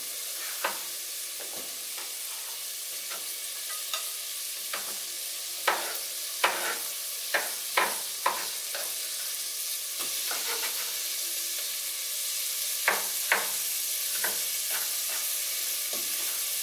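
Onion and potato pieces sizzling in hot olive oil in a stainless steel pot, a steady frying hiss. Over it, a chef's knife chops a potato on a cutting board in irregular sharp knocks, a dozen or so, some in quick pairs.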